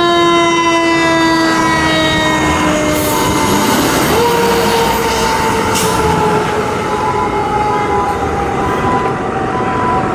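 Fire engine's air horn sounding long blasts: one held note that sags slowly in pitch, then a higher note about four seconds in that also sags as it is held, over the truck's running engine.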